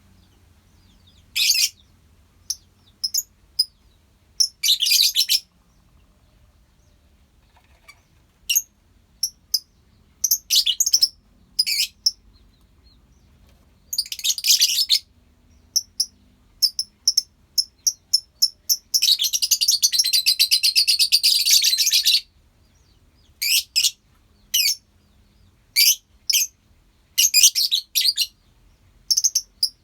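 A colony of lovebirds chirping in short, high-pitched calls with gaps between them, breaking into about three seconds of rapid continuous chattering roughly two-thirds of the way through.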